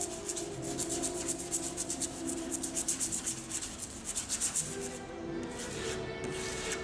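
Razor blade scraping overspray off a car's painted surface in fast, even strokes, about seven a second, slowing to fewer, spaced strokes near the end.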